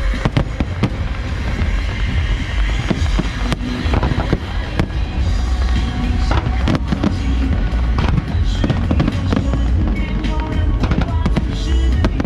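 Aerial fireworks bursting in a quick, irregular series of sharp bangs, with music playing underneath.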